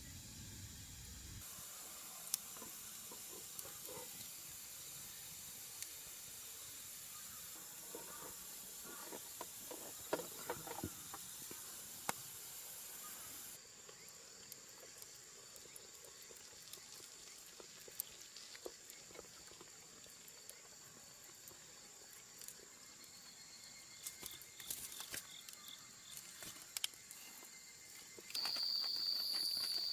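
Quiet outdoor ambience: a steady hiss with a thin, high, constant insect tone, scattered light clicks and knocks, and abrupt shifts in the background at a few points. About two seconds before the end a louder, shrill, steady insect trill starts.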